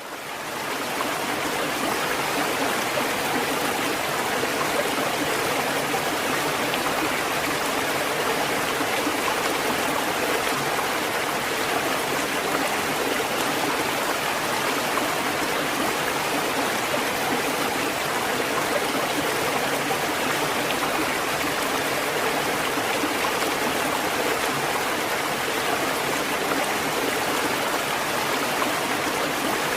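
Steady rushing water, an even hiss with no rise and fall of breaking waves. It fades in over the first second.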